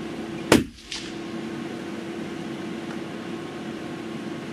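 A single sharp, loud crack about half a second in, followed by a fainter click, over a steady low hum.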